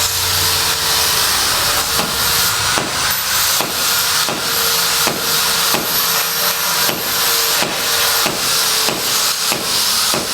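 Rhythmic sawing strokes, about three every two seconds, over a steady hiss.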